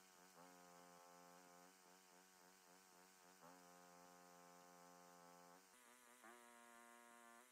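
Near silence, with only a faint held hum that shifts pitch twice.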